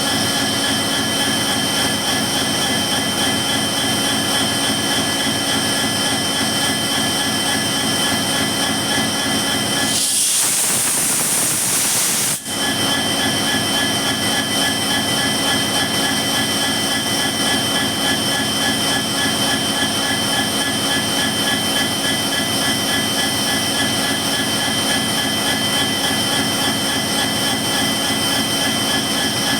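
EMD WDG4 diesel-electric locomotive's turbocharged 16-cylinder 710 engine running steadily, with a jet-like humming whine from the turbocharger holding several fixed high tones. About ten seconds in, a loud high hiss covers the whine for about two seconds and cuts off sharply.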